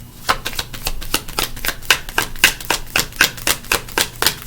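A deck of tarot cards being shuffled by hand: a quick, even run of card snaps, about six a second.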